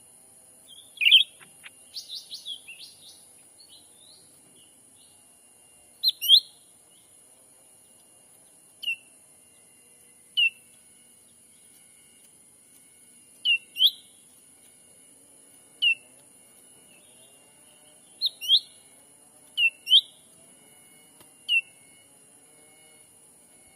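Cucak ranting calls: short, sharp, upward-sweeping chirps repeated every one to two seconds, with a quick flurry of chirps about a second in. The calls sit over a steady high insect drone.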